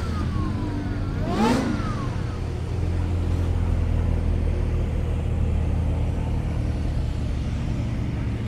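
A car engine revs once, briefly, about a second and a half in, then runs on with a steady low rumble.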